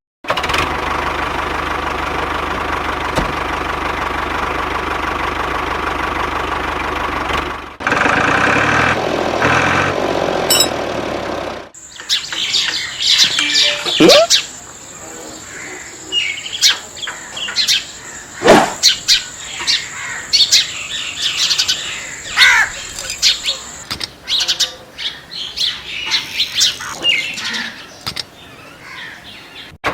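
Birds chirping in short scattered calls, with clicks and a steady high-pitched whine that stops about halfway through. Before that, a steady machine hum runs for several seconds and then cuts off abruptly.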